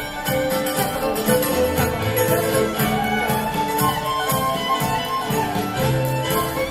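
Live contra dance band playing a dance tune, a fiddle carrying the melody over a steady, even beat.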